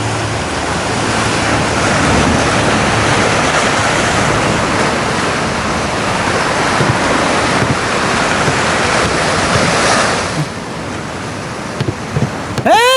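Sea waves and surf washing steadily, dropping to a quieter hiss about ten seconds in, with a few clicks and a short pitched sweep near the end.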